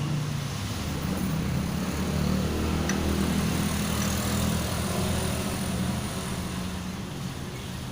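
Motor vehicle engine passing by, growing louder, then fading away.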